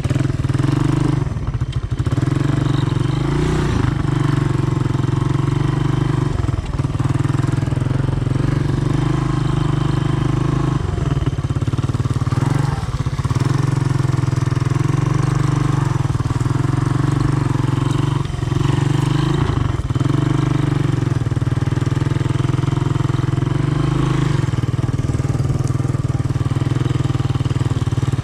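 Honda ATC 200M three-wheeler's single-cylinder four-stroke engine running steadily, with a brief dip in its note several times.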